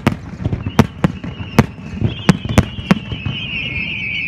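Fireworks starmine: a quick run of sharp aerial shell bursts, about seven in three seconds. From about two seconds in, a high whistle from shells rising into the sky slowly drops in pitch.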